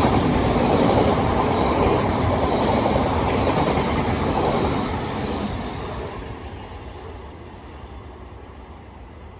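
A train running through a station on the line, loud at first and then fading steadily as it moves away.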